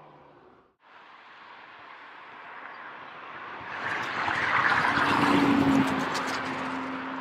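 Renault Mégane 4 RS's turbocharged four-cylinder car driving past: after a brief gap about a second in, engine and road noise build to a loud peak around five seconds in, with a few sharp crackles near the peak, then a steady engine note carries on as the sound eases off.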